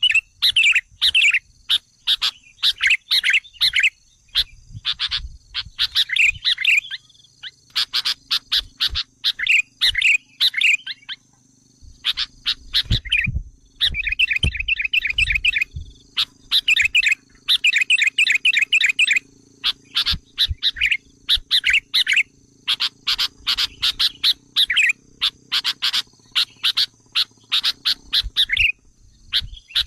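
Sooty-headed bulbul calling in bursts of rapid, chattering notes with short gaps between them. It is an excited, aggressive call of the kind used as a lure to provoke wild bulbuls. A faint steady high tone runs underneath.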